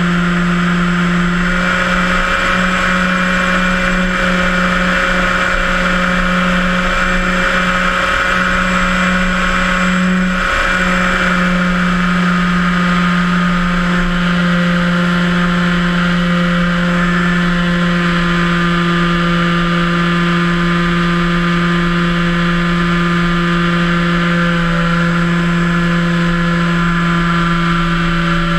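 Electric motor and propeller of a HobbyKing Cessna 182 1.5 m RC model plane in flight, a steady whine with a hiss of air noise. Its pitch holds steady, with a brief wobble about ten seconds in.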